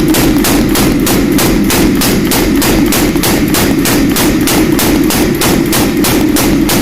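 Mechanical power hammer running, striking hot steel in rapid, evenly spaced blows about five a second over the steady hum of its motor; the blows stop at the very end while the motor keeps running.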